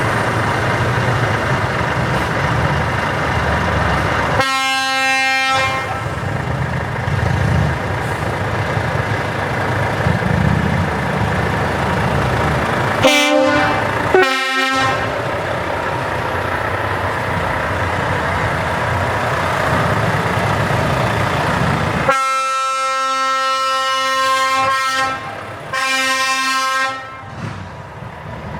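Heavy truck engines running, with truck air horns sounding over them: one blast about four seconds in, two short toots about halfway, and a long horn near the end that breaks off and sounds again.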